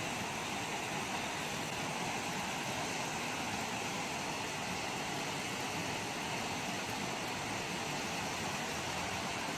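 A vehicle engine running steadily under an even hiss, with no change in pitch or loudness.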